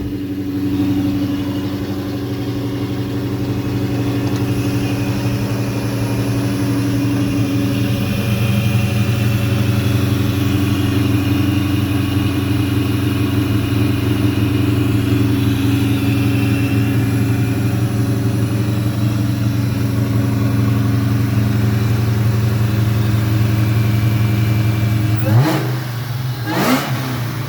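Supercharged 4.6-litre DOHC V8 of a 2004 Mustang Cobra, built with a Whipple supercharger and competition cams, idling steadily, then revved twice in quick blips near the end.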